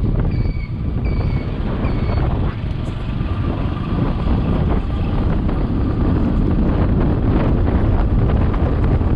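Wind buffeting the microphone and a motorcycle's road noise while riding. For the first couple of seconds a short beep repeats about twice a second, then stops.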